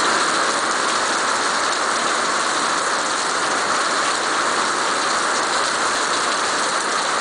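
Heavy rain pouring steadily onto wet paving stones and garden plants, a dense even hiss.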